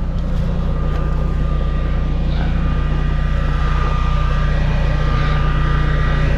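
Portable generator engine running steadily, a constant low hum with a faint high whine over it.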